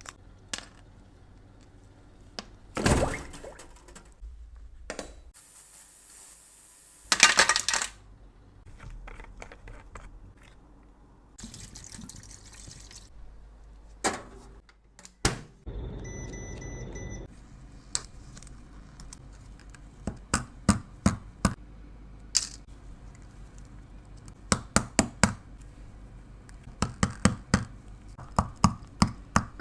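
Close-up sounds of cosmetics and tools being handled. There is a loud rustle or scrape, then a hiss lasting a few seconds that ends in a loud burst, then scattered scrapes. From about two-thirds of the way through come quick runs of sharp taps and clicks, several in a row each time.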